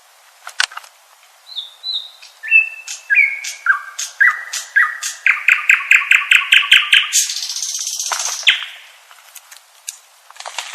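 Common nightingale singing one song phrase. It opens with a few clicks and clear whistled notes stepping down in pitch, then runs into fast repeated notes at about six a second and ends in a harsh buzzing trill about eight and a half seconds in.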